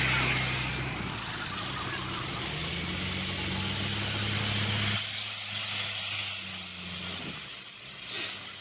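Heavy farm machine's diesel engine running steadily, then rising in pitch as it is revved up about two to three seconds in. About halfway through the deep engine sound drops away abruptly, leaving a fainter, thinner noise with a brief hiss near the end.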